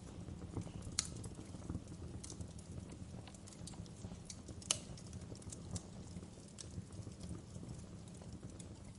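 Fire crackling: a stream of irregular small pops and snaps over a steady low rumble, with two sharper, louder pops about a second in and just before the middle.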